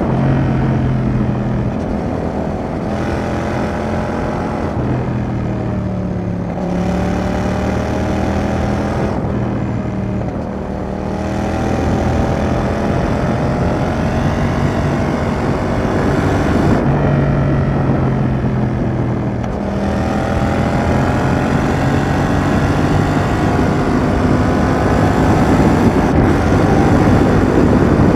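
Yamaha XSR700's 689 cc parallel-twin engine through an aftermarket Roadsitalia exhaust, heard while riding: the engine note rises and falls several times as the bike accelerates and backs off between shifts, and grows louder near the end.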